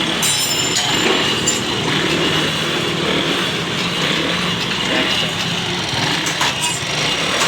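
Honda CD 70's single-cylinder four-stroke engine running steadily after its carburettor has been adjusted, now working properly.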